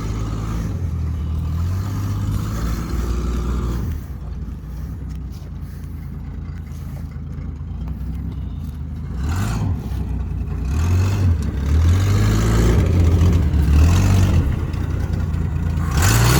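The AMC 258 inline-six of a 1979 Jeep J10 running as the truck drives off. It eases off about 4 seconds in, then revs up and down several times in the second half, at its loudest then.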